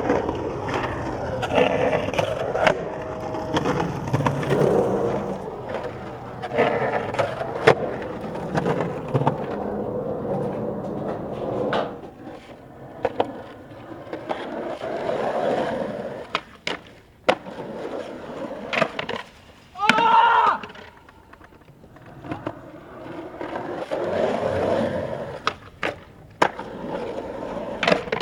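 Skateboard wheels rolling and rumbling over concrete, broken by repeated sharp clacks of the board popping, hitting and landing.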